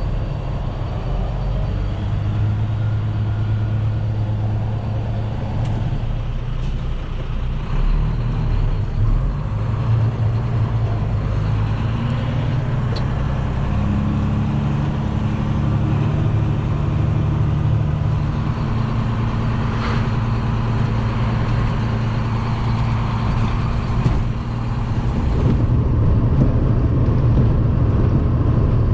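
Diesel engine of a semi truck loaded with corn, running steadily, its note shifting about halfway through as the truck is pulled ahead on the scale.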